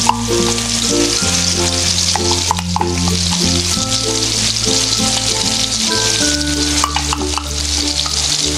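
Freshly blended chili spice paste frying in hot oil in a wok, a steady sizzling hiss. Soft background music of held low notes plays under it.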